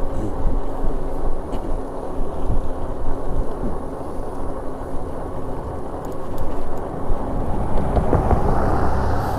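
Wind rushing over the action camera's microphone, with tyre and road noise, while riding an electric bike along a road.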